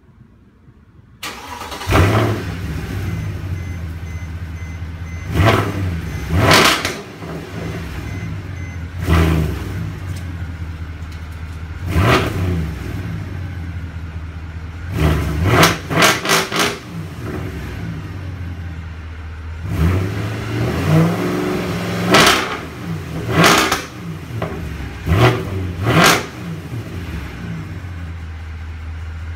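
Mercedes-Benz C63 AMG's 6.2-litre V8 warm-starting about a second in, then idling and revved in a dozen or so quick throttle blips, some in fast doubles and triples, through an X-pipe and straight pipes with the second catalytic converters deleted. Insanely loud, crisp and metallic.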